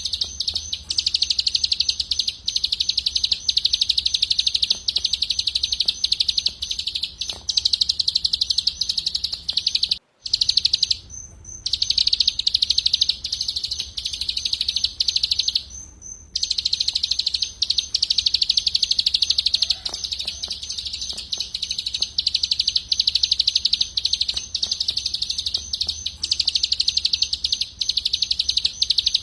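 Small songbird singing a long, very fast trill of repeated high notes, almost without a pause, with brief breaks about ten and sixteen seconds in.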